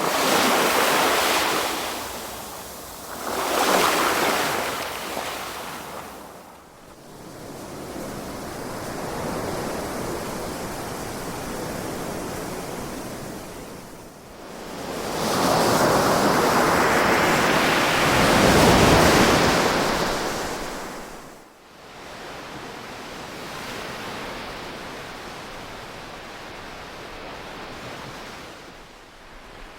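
Ocean waves breaking and washing up the shore, swelling and ebbing: a surge right at the start, another around four seconds in, and a longer, louder one from about fifteen to twenty-one seconds, with a softer wash between.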